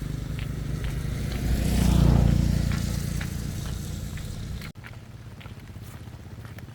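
An engine running steadily with a low hum that swells about two seconds in, then drops suddenly to a quieter hum about three-quarters of the way through.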